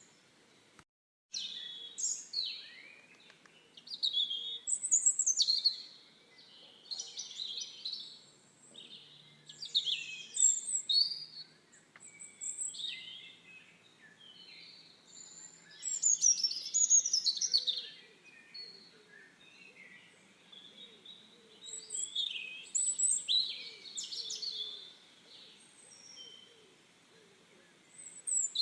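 Small songbirds chirping and singing, many short, quick calls and trills overlapping, with a brief cut to silence about a second in.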